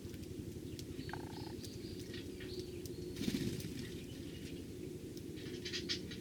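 Eurasian tree sparrows giving short, high chirps, with a brief flutter of wings about three seconds in and a quick run of chirps near the end, over a steady low background hum.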